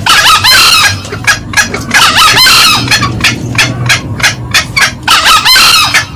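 Green junglefowl calling, male and female, at high volume: a rapid run of sharp cackling notes, several a second, broken by three denser call bursts near the start, about two seconds in, and near the end.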